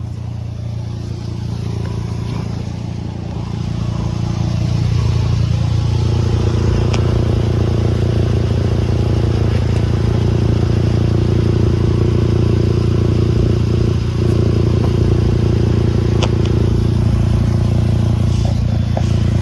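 A VW Golf's 2.5-litre five-cylinder engine running steadily with a loud exhaust leak blowing from under the car, getting louder about four seconds in. The owner traces the leak to a clamped joint in the exhaust pipe.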